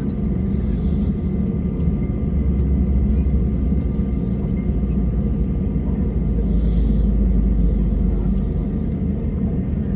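Steady low rumble inside a jet airliner's cabin on the ground after landing, with faint steady whines from the aircraft's systems.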